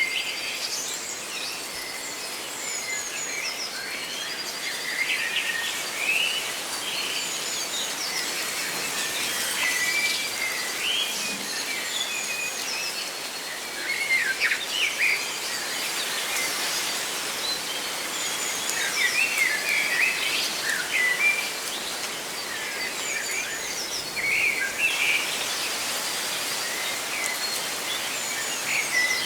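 Many small songbirds chirping and trilling, with calls overlapping throughout, over a steady hiss of rustling leaves.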